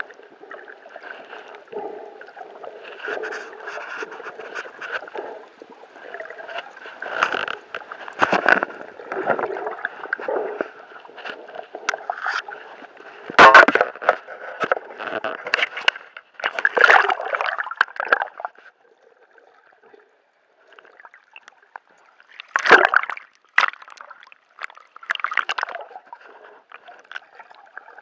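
Water sloshing and splashing in irregular bursts around a small boat, with a few louder splashes about halfway through and again later, and a brief lull between them.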